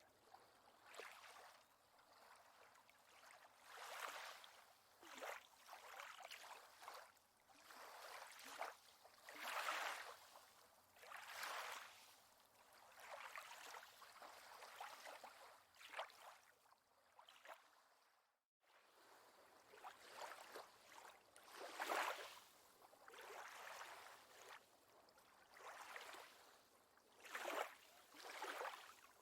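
Faint water lapping at a lakeshore, small waves washing in every second or two, with a brief dead gap a little past the middle where the recording cuts out.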